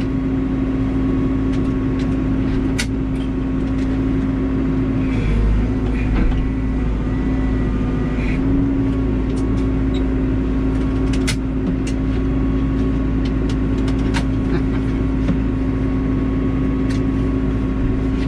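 Caterpillar backhoe's diesel engine running steadily with a constant hum, with a few short knocks and clicks scattered through it.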